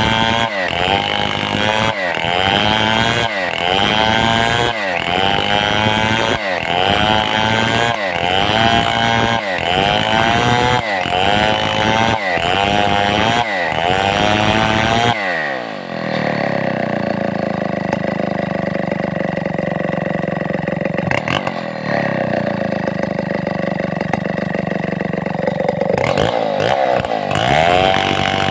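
Stihl 070 two-stroke chainsaw running hard. For the first half its engine speed rises and dips in a regular cycle about every second and a half. About halfway through the pitch falls and holds at a steady lower speed, then rises again near the end.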